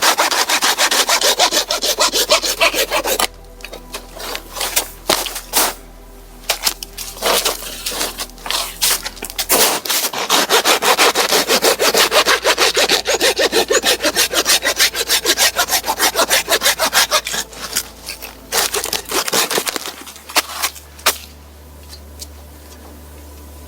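Hand saw cutting through wood for a campfire in runs of quick back-and-forth strokes: a short run at the start, scattered strokes, then a long steady run of about nine seconds, and a few last strokes before it stops.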